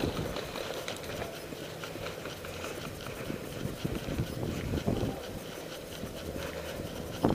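Footsteps of someone running, with knocks and rubbing from a body-worn camera being jostled.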